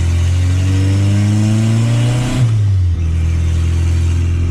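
Turbocharged VW Gol AP four-cylinder engine pulling under throttle, its note rising steadily for about two and a half seconds, then dropping sharply with a brief blip as the throttle is lifted, and settling into a steady lower drone.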